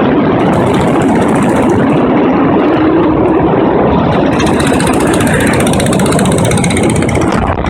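1937 BSA M20's single-cylinder side-valve engine running steadily.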